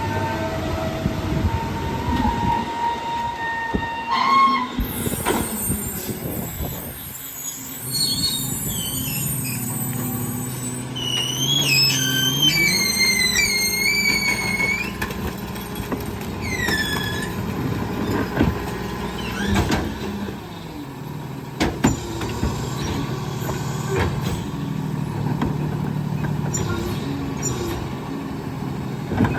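Garbage truck compactor cycling: the engine drone steps up under load partway through, with high squealing from the packer mechanism and a few sharp clanks.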